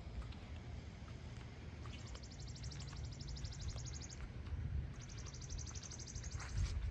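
Two high, rapid trills from an animal, each lasting about two seconds, the first starting about two seconds in and the second about five seconds in, over a low rumble.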